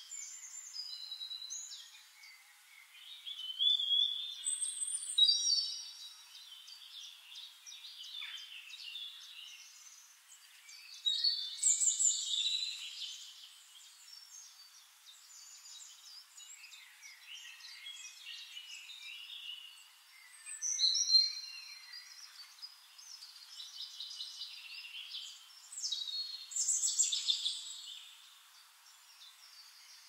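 Songbirds singing: bursts of varied, high-pitched song phrases every few seconds, with quieter chirping in between.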